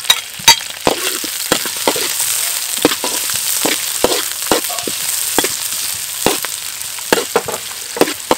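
Sliced green onion and garlic sizzling in hot oil in a steel wok, with frequent sharp clinks and scrapes of a metal ladle stirring them against the pan.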